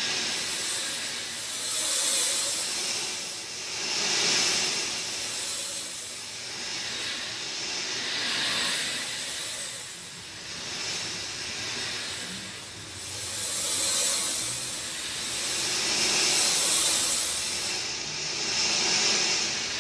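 Rain falling as a steady hiss that swells and eases every two seconds or so.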